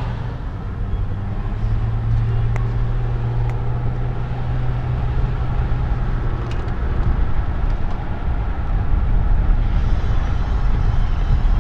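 Car driving, with steady road and engine noise heard from inside the cabin and a low hum.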